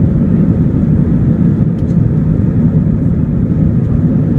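Steady, loud cabin noise inside an Airbus A321-231 in flight: a low, even rumble of its IAE V2500 engines and the airflow over the fuselage.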